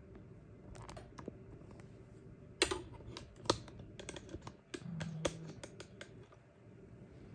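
A series of irregular light clicks and knocks, the loudest about two and a half and three and a half seconds in, with a cluster of smaller ones after.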